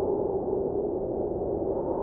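Steady, muffled snowstorm wind with a low droning hum, unchanging and without distinct events.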